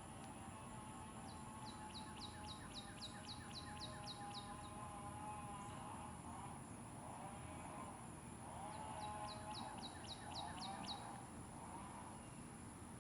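A songbird singing: two runs of rapid, repeated downslurred whistled notes, about four a second, the second run a little shorter.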